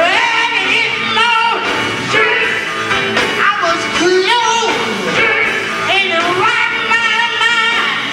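Gospel group singing live, in sung phrases with notes that slide and bend in pitch.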